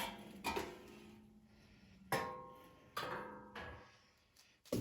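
About five sharp clanks of loose metal parts being handled and set down, some ringing briefly after the knock.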